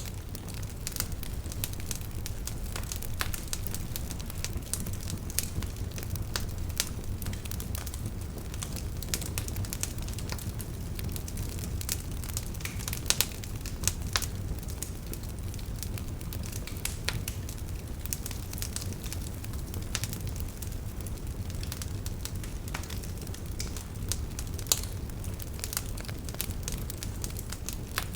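Wood campfire burning steadily, a low rumble of flames with frequent irregular crackles and a few sharper pops.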